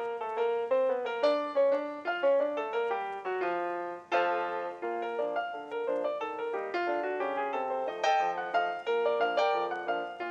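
Background music: solo piano playing a gentle melody of single notes and chords, each note struck and fading.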